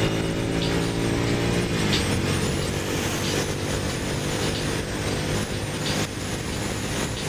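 Ducati motorcycle's L-twin engine running at road speed with heavy wind rush. The engine note holds steady, then drops in pitch about two seconds in as the revs fall.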